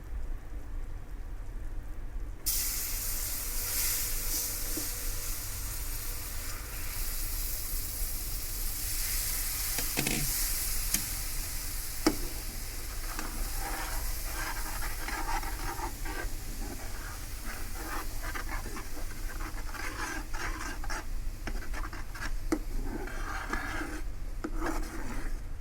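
Warm milk sizzles as it hits a hot roux of ghee and flour in a pan, starting suddenly about two seconds in. A spoon then stirs and scrapes the pan over and over as the sauce is worked smooth, without lumps.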